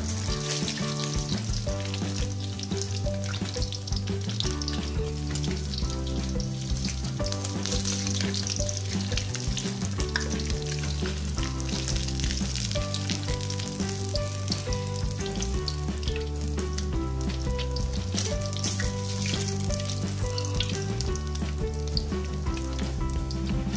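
Fish pieces frying in hot oil in a wok: a steady crackling sizzle, over background music.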